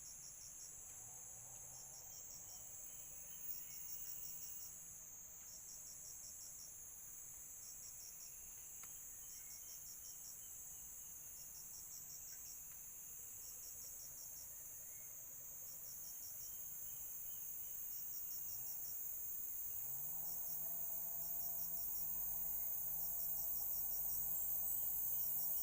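Crickets and other insects: short pulsed trills repeat every couple of seconds over a constant high buzz. About twenty seconds in, a low droning hum fades in and grows louder.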